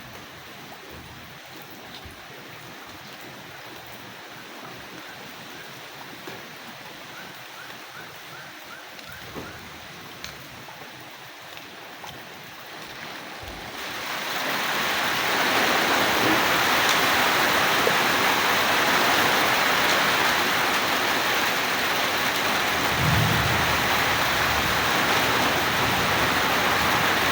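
Rain falling, light with scattered drips at first, then swelling into a heavy, steady downpour about halfway through. A short low rumble of thunder comes under the rain late on.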